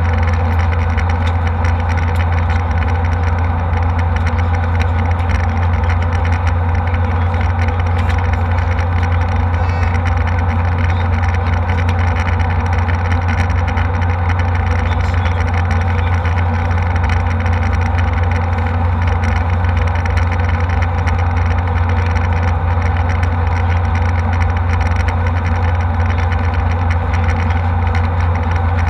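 Steady drone inside a jet airliner's cabin in flight: the engines and the rushing airflow make a constant, loud low hum with a broad hiss above it.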